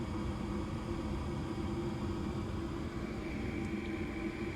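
Gas furnace running with its draft inducer motor on and the burners lit by a new hot surface igniter: a steady mechanical hum and rush. A faint high whine joins in about three seconds in.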